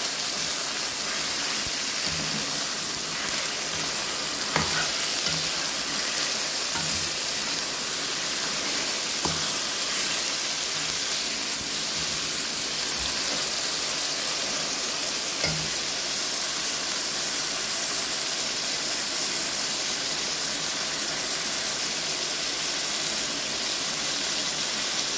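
Mutton liver and other offal frying in hot oil with onions and ginger-garlic paste in a kadai, sizzling steadily. A few short knocks of the stirring spoon against the pan stand out above the sizzle.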